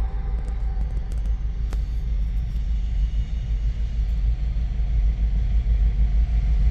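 Steady low rumble of a Norfolk Southern coal train, just after its horn.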